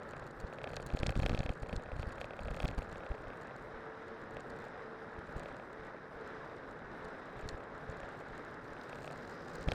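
Steady rolling noise of a cyclocross bike on spiked tyres riding downhill, with a brief burst of low rumble about a second in.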